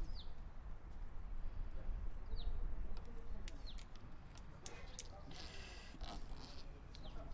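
A small bird chirping a few times, short falling chirps, over a low steady rumble, with scattered light clicks and a brief rustle of something being handled about five seconds in.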